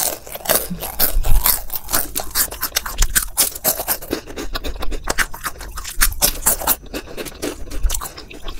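Crunchy Cracks corn-snack rings being bitten and chewed: a rapid, irregular run of crisp crunches, picked up close by a clip-on microphone.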